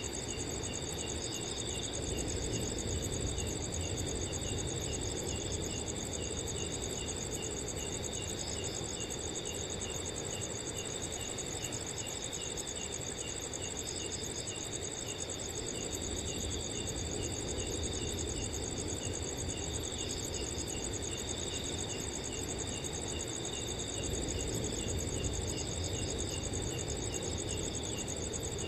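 Several crickets chirping together: a continuous high trill, with a steady, regularly pulsed chirp and occasional chirp clusters from other crickets, over a soft, shifting wind noise.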